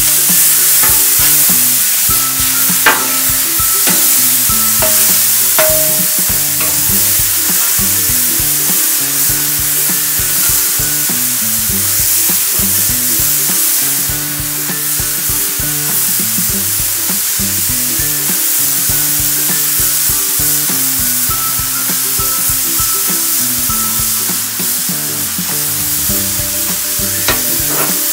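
Smash burger patties frying on a Pit Boss steel flat-top griddle, a loud steady sizzle, with a few sharp clicks of a metal spatula against the plate as the patties are turned.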